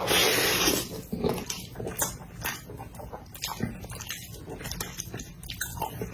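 Close-miked eating: a loud noisy burst just under a second long at the start, then chewing with frequent small wet clicks and smacks.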